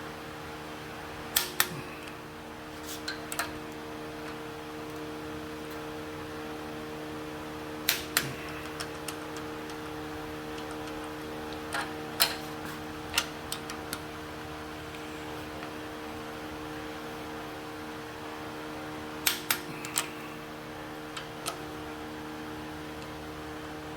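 Sharp metallic clicks and knocks in small groups of two or three, now and then, from hand work on engine parts, over a steady electric fan hum.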